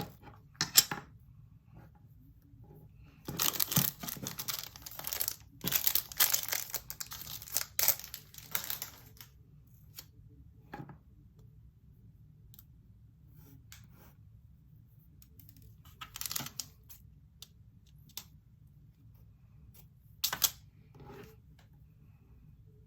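Small plastic bags of diamond-painting drills being crinkled and torn open, in several rustling bursts, with a few sharp clicks of small plastic containers being handled.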